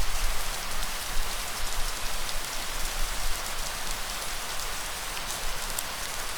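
Steady, dense rain hiss, with a low rumble underneath that is strongest in the first second or so.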